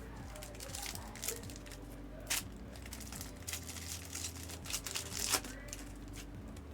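Foil trading-card pack wrappers crinkling and tearing as packs are opened and handled: irregular rustling with a few sharper crackles, the sharpest about two and a half and five and a half seconds in.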